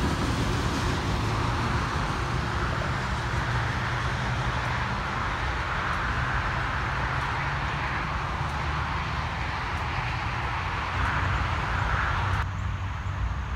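Freight train's rear autorack cars rolling away on the rails: a steady low rumble with a hiss of wheel noise. About twelve seconds in the sound changes abruptly, leaving only a low rumble.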